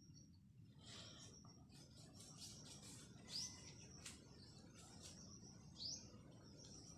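Faint bird chirps: two short upward-sweeping chirps about two and a half seconds apart, over a thin steady high tone and scattered light ticks.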